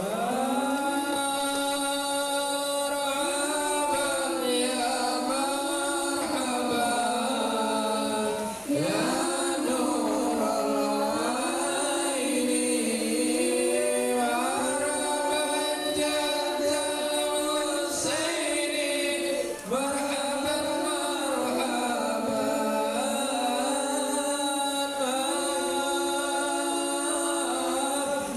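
Voices singing sholawat, Islamic devotional chant in praise of the Prophet, in long held melodic phrases that glide between notes, with short breath pauses about nine and twenty seconds in.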